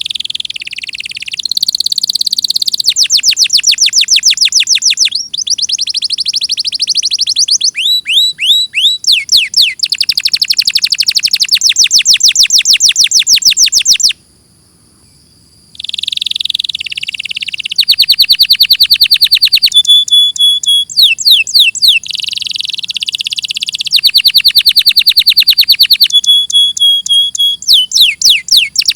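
Domestic canary singing a loud, high-pitched song of rapid trills and rolls, fast runs of repeated notes strung into long phrases. The song stops for about a second and a half midway, then starts again.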